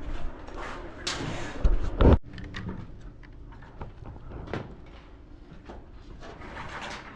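Scattered knocks, clicks and rattles of work handling, with one loud, heavy thump about two seconds in.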